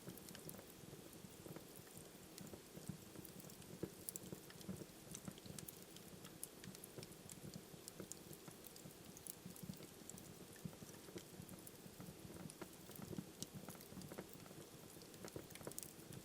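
Wood fire burning in a fireplace, crackling quietly: frequent small irregular snaps and pops over a soft, steady low rush of the flames.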